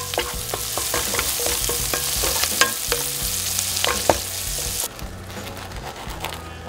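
Bacon, shallots and green onion sizzling in a frying pan as they are stirred, the spatula tapping against the pan now and then. The sizzle cuts off about five seconds in, leaving the quieter sound of a knife sawing into a bread roll.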